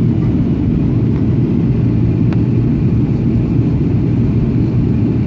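Steady low cabin drone of a Boeing 737-800 in flight on approach: engine and airflow rumble heard from inside the cabin. There is a faint click about two seconds in.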